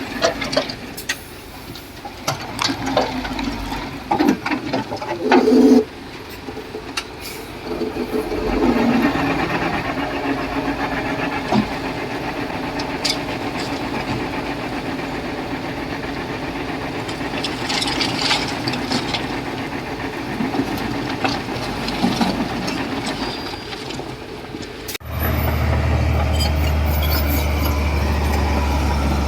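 Heavy construction machinery's diesel engine running, with scattered metallic clanks. About 25 seconds in the sound changes abruptly to a steadier, louder low engine drone.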